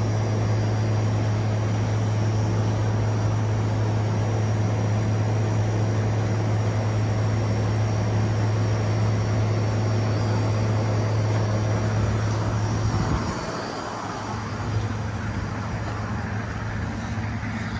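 Outdoor air conditioner condensing units running with a loud, steady low hum. About 13 seconds in the hum drops sharply as one unit shuts off, and a quieter hum from a unit still running carries on.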